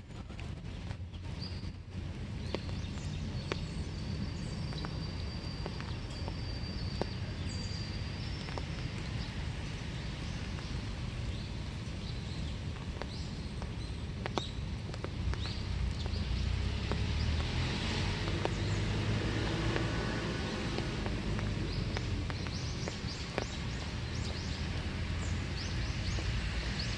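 Steady winter rain falling in a small wood, with scattered sharp taps of drops landing close by. It grows a little louder from about halfway in.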